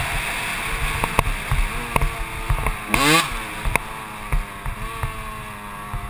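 Kawasaki KX125 single-cylinder two-stroke dirt-bike engine running, with a quick rev blip about halfway through, then running lower and steadier. Scattered sharp knocks are heard throughout.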